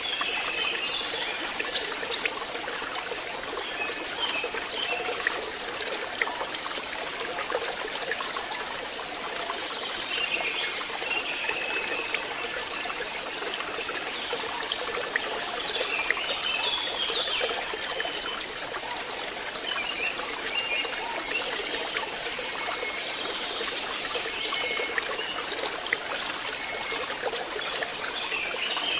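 Water trickling and splashing steadily into a fishpond, with two sharp clicks about two seconds in.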